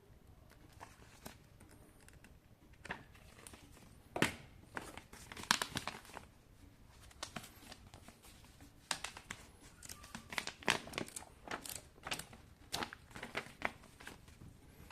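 Packaging being handled and unwrapped: irregular crinkling, crackling and tearing, sparse at first and busier from about four seconds in.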